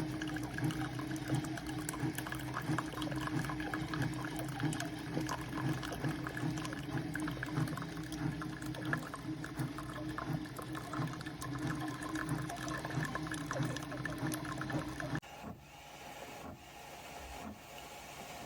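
SiFENE single-serve coffee maker brewing: its pump hums steadily while water gurgles and sputters through. The hum stops abruptly about fifteen seconds in, leaving a fainter hiss as the brew finishes.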